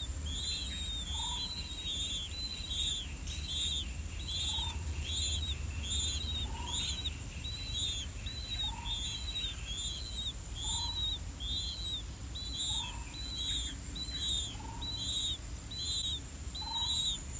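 Blue-winged pitta chicks begging in the nest: a high, arched call repeated evenly at nearly two a second, with a lower, short note repeating about every two seconds.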